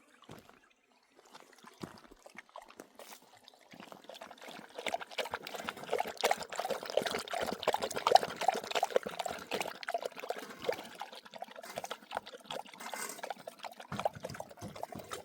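Water pouring and trickling with an uneven splashing spatter, building up about four seconds in and easing off toward the end.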